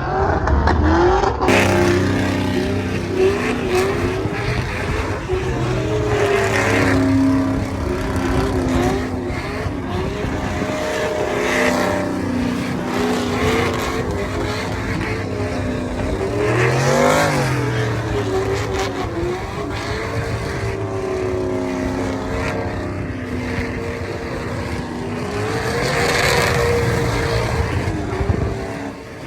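Vehicle engines running and revving, their pitch climbing and dropping repeatedly, with one sharp rise and fall about seventeen seconds in.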